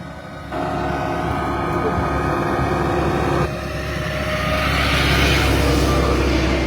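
Motor vehicle sounds: a steady engine hum that starts abruptly about half a second in and stops about three and a half seconds in, then a rushing noise that swells and fades like a vehicle passing.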